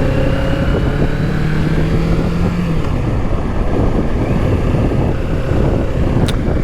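Kawasaki Z650's parallel-twin engine running while riding, with wind noise on the microphone. The engine note rises slowly over the first three seconds, then breaks off.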